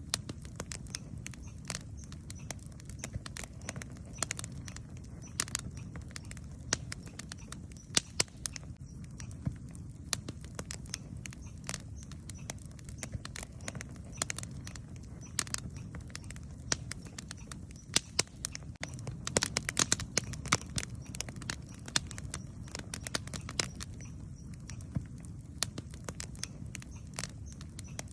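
Campfire burning with irregular sharp crackles and pops from the wood over a steady low rumble. A denser run of pops comes about two-thirds of the way through.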